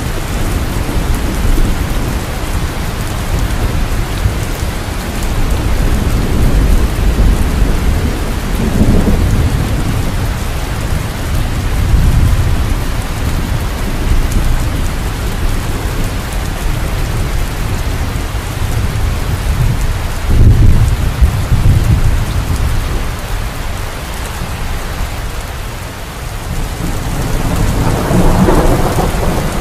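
Steady heavy rain with deep rolling thunder rumbling underneath, swelling and easing in waves; one of the louder rumbles comes about two-thirds of the way through.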